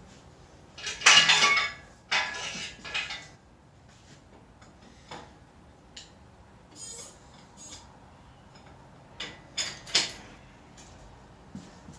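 Metal lifting chain rattling and clinking as it is pulled down for rigging: a loud jangle about a second in, more over the next two seconds, then scattered clinks and a few sharp ones near the end.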